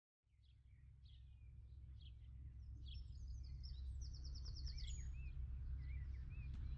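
Small birds chirping and singing outdoors, with a fast high trill about four seconds in, over a steady low rumble; the sound fades up from silence at the start.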